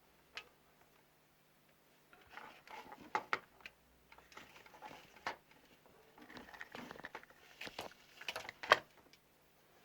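Irregular small clicks, taps and rustling from handling tools and parts at a workbench, with one sharper click near the end.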